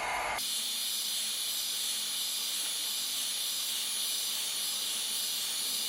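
Heat gun running on its low setting, a steady hiss of blown hot air with a thin high whine. It is softening the adhesive along the edges of a phone's screen.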